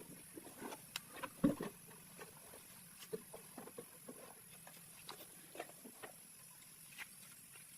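Faint, irregular light knocks, taps and clicks, the loudest a knock about one and a half seconds in.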